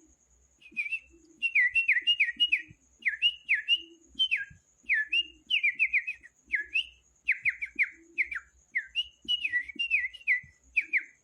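Short whistled notes, each sliding down in pitch, repeated in quick runs of three or four with brief gaps.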